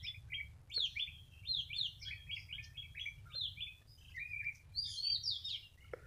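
Small birds singing: a continuous run of quick, downward-slurred chirps, several a second, over a low steady rumble.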